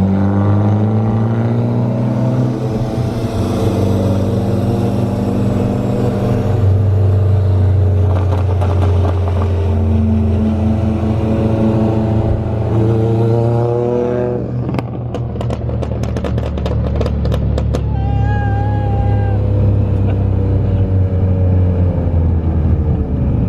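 Car engine running while driving, heard from inside the cabin, its pitch rising and falling with throttle and gear changes. About two-thirds of the way in comes a quick run of clicks, followed by a short high beep-like tone.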